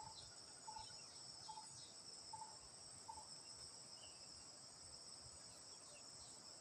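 Faint, steady high-pitched chorus of insects in the garden, with a few short faint chirps in the first few seconds.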